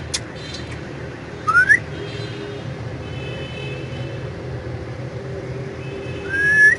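Indian ringneck parrot giving two short upward-sliding whistles, one about a second and a half in and one near the end, over a steady low background hum.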